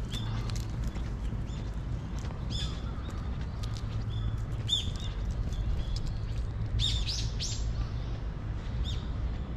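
Small birds chirping in the trees: many short, sharp calls scattered throughout, over a steady low background rumble.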